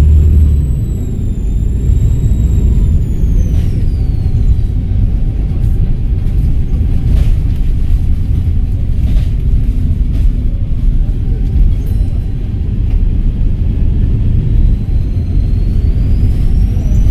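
Volvo B7RLE bus's diesel engine pulling under way with a heavy low rumble and a high turbocharger whistle. The whistle falls away about three to four seconds in and rises again near the end as the turbo spools back up.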